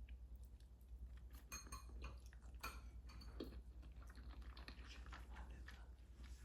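Faint, scattered clinks and taps of utensils and dishes, busiest around the middle, over a steady low hum.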